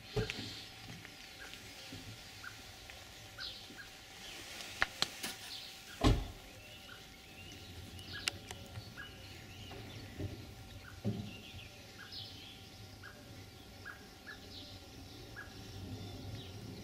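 Outdoor ambience with birds chirping: scattered short high chirps and a short note repeated about once a second. A few sharp clicks about five seconds in and a thump just after six seconds.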